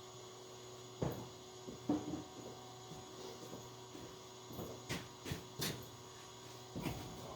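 Steady low electrical hum with a few scattered light clicks and knocks.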